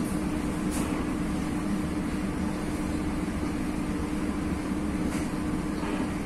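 Passenger train running, heard from inside a coach: a steady rumble of wheels on rail under an even hum, with a couple of faint ticks.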